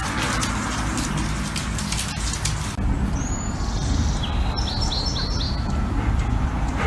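A bird chirping: a quick run of four or five short, high chirps about halfway through, with a couple of single chirps before it, over a steady low rumble. Before that, crackly noise with many small clicks stops abruptly.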